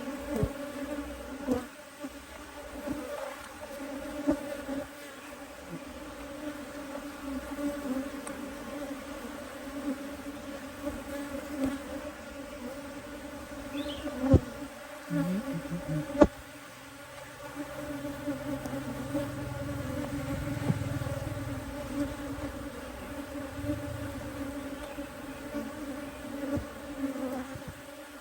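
Honey bees buzzing steadily in a low, even hum from an open hive during a frame inspection. About halfway through come two sharp knocks, two seconds apart.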